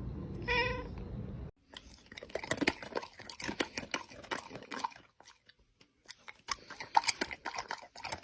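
A dog chewing and crunching on something hard, in quick, uneven crunches with a short pause partway through. Before it, about a second and a half of steady rumbling noise with one short high call ends in an abrupt cut.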